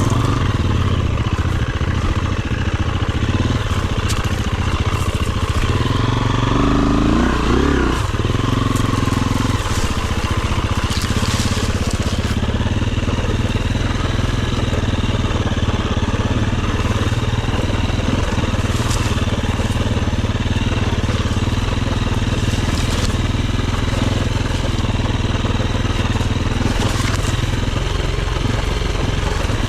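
Enduro dirt bike engine running at a fairly steady speed, with scattered knocks throughout and a brief change in pitch around the middle.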